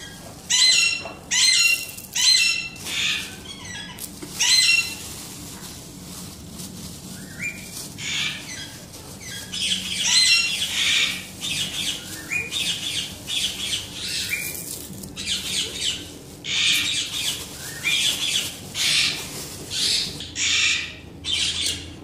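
Birds calling and squawking: a few short, pitched calls in the first five seconds, then a long run of harsher squawks, roughly one a second.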